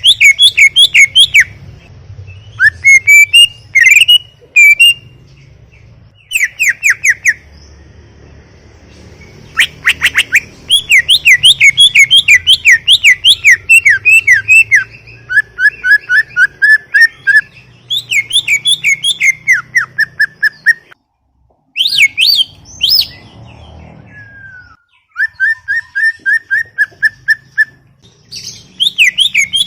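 Cucak ijo (green leafbird) singing at full voice: loud, fast chattering phrases of quickly repeated notes, each lasting a few seconds, with short pauses between them.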